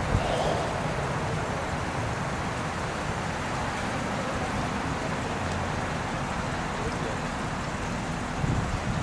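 Vehicle engine idling steadily, a low hum under wind noise on the microphone.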